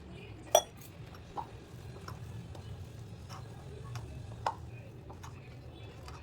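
Dishes and utensils clinking: one sharp clink about half a second in, a few lighter taps, and another clear clink a little past four seconds, over a steady low hum.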